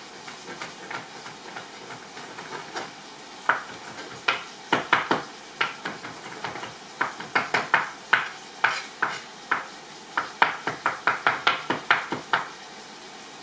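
Knife chopping garlic: a few scattered cuts from about three and a half seconds in, then quick runs of chops, several a second, stopping shortly before the end. Chicken sizzles steadily in a pan underneath.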